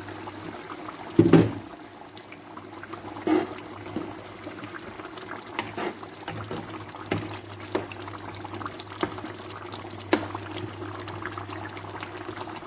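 A pot of palm-oil soup base bubbling on the heat, small pops scattered over a steady hiss. A loud knock about a second in and a lighter one about three seconds in.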